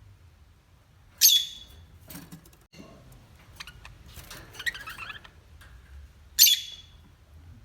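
Parrot giving two loud, short squawks about five seconds apart, with quieter chattering and clicks between them.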